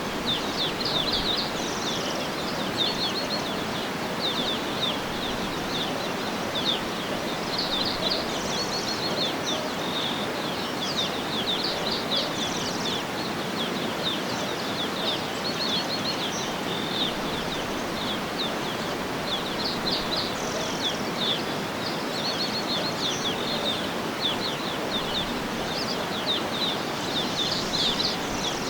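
Birds chirping in repeated quick trills over a steady background hiss of outdoor ambience.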